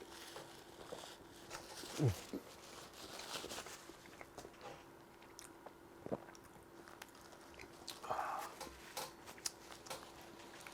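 Close-miked chewing and biting of a soft, saucy burger: small wet mouth clicks and smacks, with a brief low falling sound about two seconds in.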